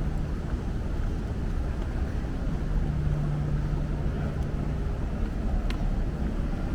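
City street ambience: a steady low rumble of traffic. A low, even engine hum rises out of it for a couple of seconds in the middle, and a single sharp click comes near the end.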